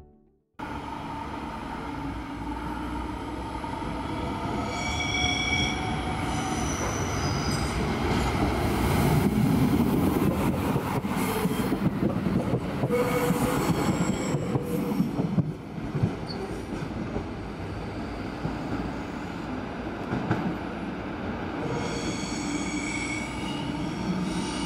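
Red-and-white ÖBB diesel multiple-unit train running past on the rails, loudest about ten seconds in. High-pitched wheel squeal sounds a few seconds in and again near the end.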